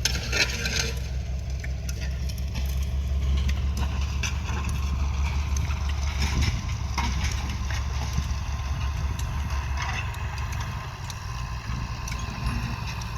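Farm tractor engine running steadily at a low, even hum while tilling soil, with a few short clicks and knocks scattered over it.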